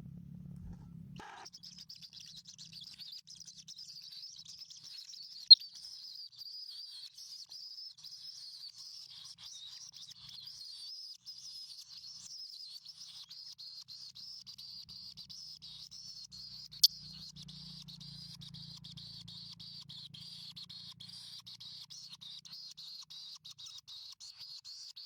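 Continuous high-pitched chirping of small birds, with two sharp clicks, one about five seconds in and one about two-thirds of the way through.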